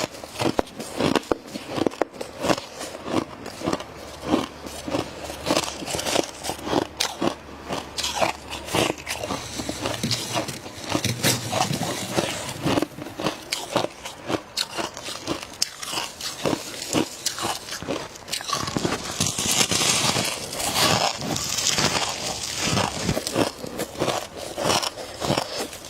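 Close-up biting and chewing of dry freezer frost: a dense, continuous run of crunches. For a few seconds past the middle the crunching grows denser and hissier.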